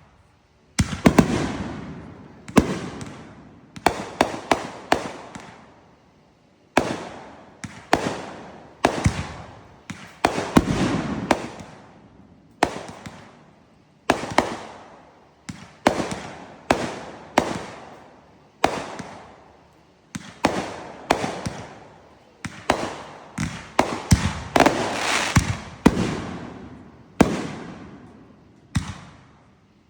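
Fireworks going off in a steady barrage: sharp bangs fire one after another, often several in quick succession, and each echoes away over a second or so.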